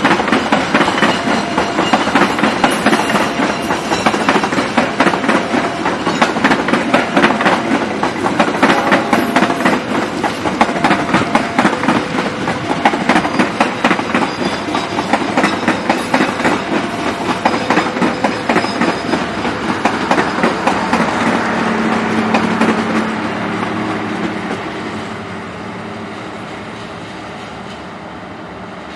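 Passenger train coaches rolling past at close range, their wheels clacking rapidly over the rail joints. Near the end the clatter fades as the last coaches move away.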